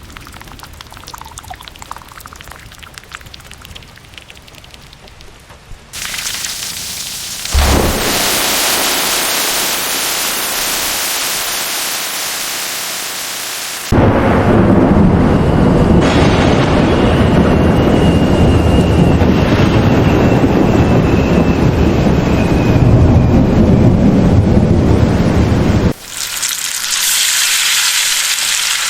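Thunderstorm sound effects: a quiet stretch, then heavy rain hiss coming in about six seconds in, a sudden thunder hit shortly after, and a long loud stretch of rain with a deep thunder rumble. The sections change abruptly rather than fading.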